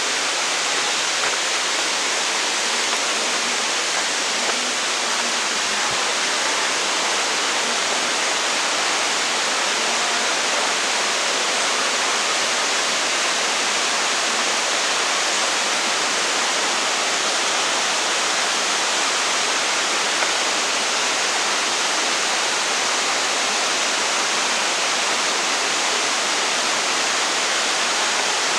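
Waterfall: the steady, unbroken rush of falling water, its hiss strongest in the upper range.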